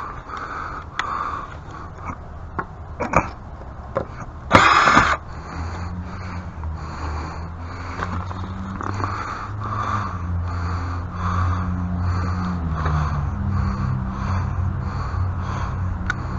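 A few clicks, then a short loud rasping noise about four and a half seconds in, followed by a steady low motor hum that drops slightly in pitch near the end.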